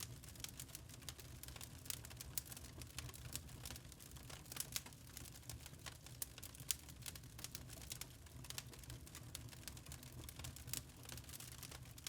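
Wood fire in a fireplace crackling: an irregular scatter of sharp pops and snaps, several a second, over a steady low rumble of the burning.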